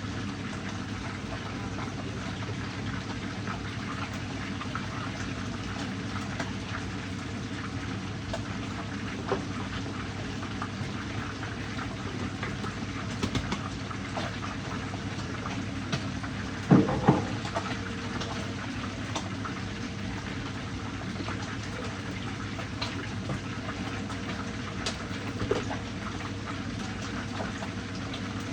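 Fish frying in hot oil in a pan: a steady sizzle with a low hum beneath it, and a short clatter about two-thirds of the way through.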